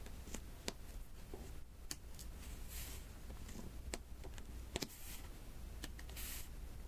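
Diamond painting: round resin beads being tapped one by one onto the sticky canvas, giving light, irregular clicks. Two brief scratchy hisses come about three seconds in and near the end.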